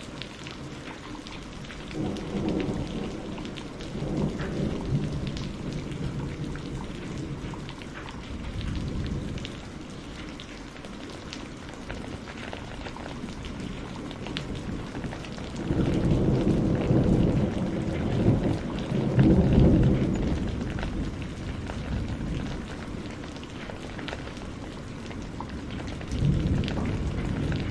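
Steady rain hissing, with thunder rolling in low rumbles several times; the longest and loudest roll comes about halfway through.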